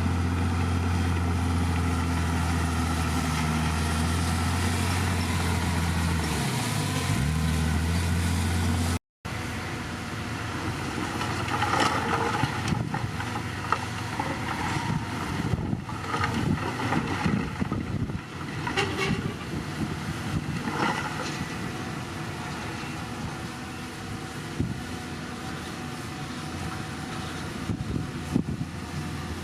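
Heavy diesel earthmoving machinery running steadily, its engine pitch dipping briefly and recovering about seven seconds in. After an abrupt cut, rougher machine noise with scattered clanks and knocks.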